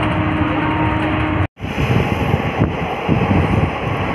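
Running noise of a moving passenger train heard from inside the coach, with wind buffeting the microphone at the open window. There is a steady hum in the first part, and the sound cuts out for an instant about a second and a half in.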